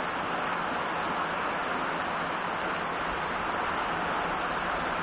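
Heavy rain pouring steadily onto a road and oil palm trees, an even hiss with no breaks.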